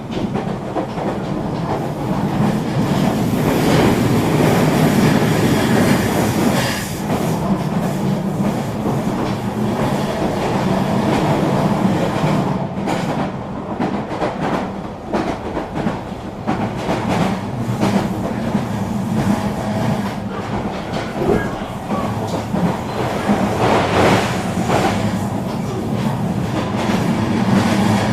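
Regional train running along the track: a steady rumble and hum with scattered clicks of the wheels over rail joints.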